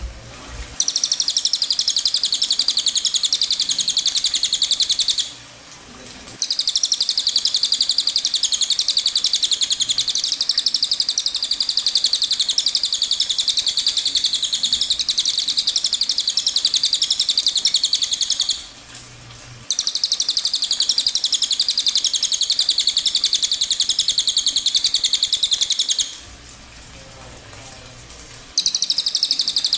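A small bird sings a rapid, high-pitched trill in long unbroken bouts. There are four bouts, split by short pauses of one to two seconds.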